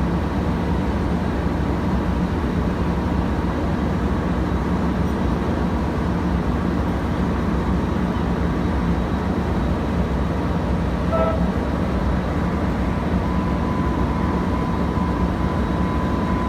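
Steady, loud engine rumble with a low hum, with a brief short tone about eleven seconds in.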